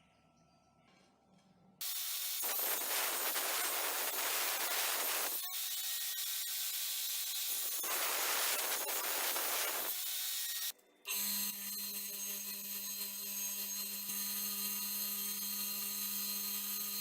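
Metal being scrubbed with an abrasive, a loud rasping rub that stops briefly about halfway through. A power tool's electric motor then starts and runs steadily with a high whine.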